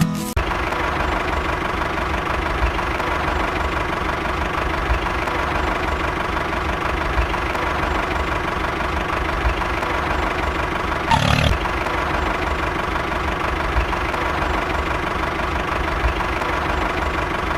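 An engine running steadily at an even, idle-like speed, with one short sharp knock about eleven seconds in.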